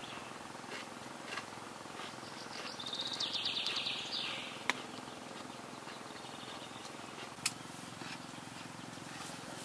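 A bird's fast high trill lasting about a second and a half, a few seconds in, over faint steady background noise, with two sharp clicks after it.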